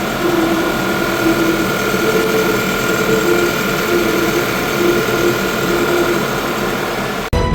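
Audi A5 2.0T turbocharged four-cylinder engine running steadily with the serpentine belt refitted over a newly replaced alternator, a thin steady whine over the engine noise. The sound cuts off suddenly near the end.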